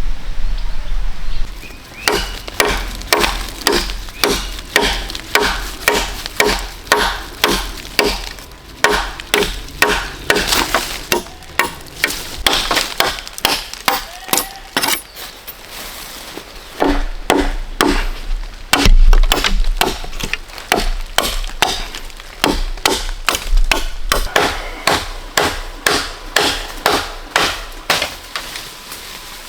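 Steady series of chopping strikes on bamboo, about two blows a second, starting about two seconds in.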